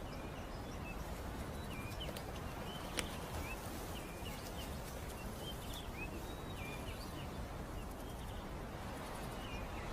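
Natural outdoor ambience: scattered short bird chirps over a steady background hiss, with a single sharp click about three seconds in.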